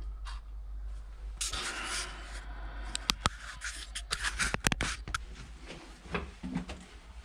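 Rustling, then a quick run of sharp clicks and knocks, like things being handled and moved about.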